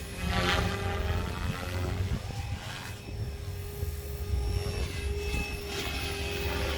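Protos 380 electric RC helicopter flying, a steady motor and rotor whine with passing swooshes from the blades, over heavy wind rumble on the microphone.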